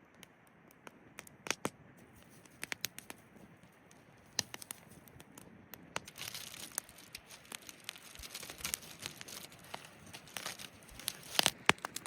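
Crinkling, rustling handling noise with many scattered sharp clicks, busier and denser in the second half.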